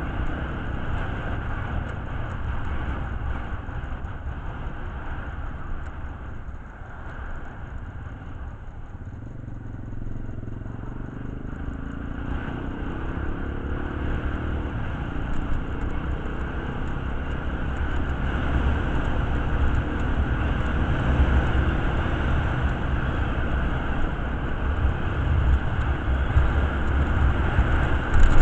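Motorcycle engine running with a steady low rumble, its note rising partway through as it speeds up.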